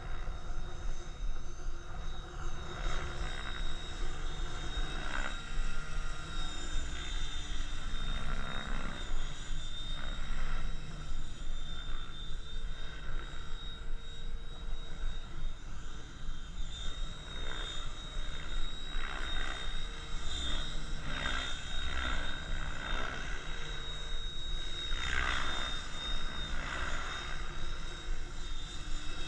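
KDS Innova 700E electric RC helicopter in flight: a steady high whine over the rotor noise, with repeated swoops in pitch as it manoeuvres, mostly in the second half. Wind buffets the microphone with a low rumble.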